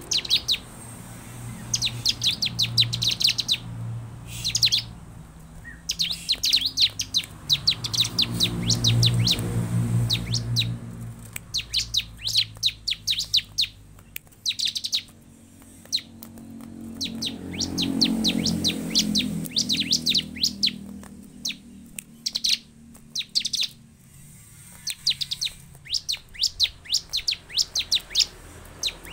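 Bar-winged prinia (ciblek) calling: rapid strings of sharp, high chirps in short bursts, repeated again and again. A low rumble swells and fades twice underneath, about nine and eighteen seconds in.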